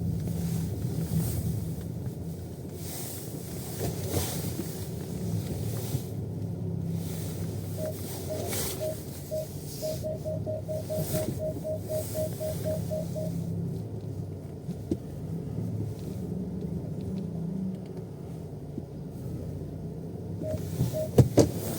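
Steady low hum of a car heard from inside the cabin. A run of quick, evenly spaced ticks comes about eight to thirteen seconds in. A sharp knock near the end is the loudest sound.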